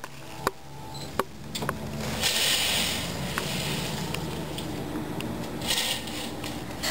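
A vehicle engine running with a steady low hum that builds about two seconds in, with a few sharp clicks in the first two seconds.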